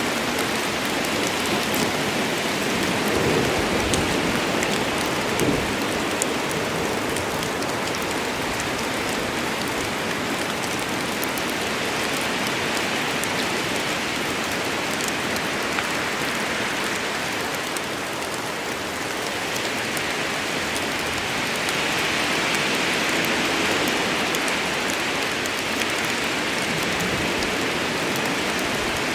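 Steady heavy rain falling in a forest, a dense hiss of drops with fine patter and a few heavier low thuds about four to six seconds in.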